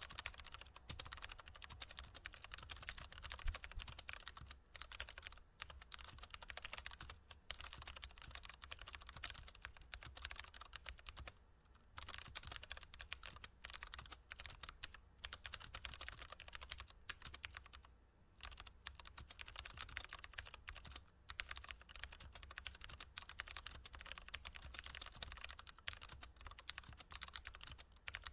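Typing on a computer keyboard: a fast, continuous run of key clicks, broken by a few brief pauses.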